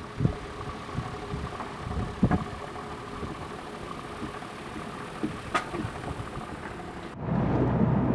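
Wind noise with scattered knocks aboard a sailing yacht at anchor. About seven seconds in, it cuts to the yacht's engine running steadily as the boat motors under way.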